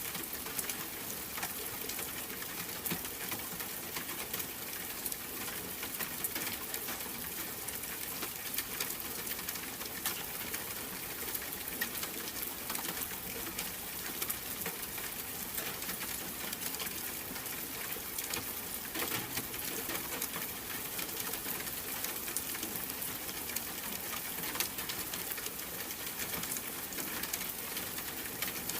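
Steady rain, a dense patter of fine drop clicks over an even hiss.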